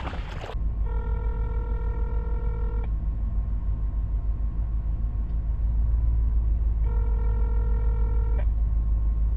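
Telephone ringback tone heard over a phone's speaker, ringing twice, about two seconds each with a four-second gap, the second ring cut short as the call is answered. A steady low rumble runs underneath.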